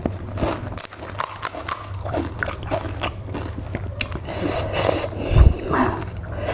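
Pani puri being bitten and chewed: the crisp hollow puri shells crunch between the teeth in a string of sharp crunches. A low thump comes about five seconds in.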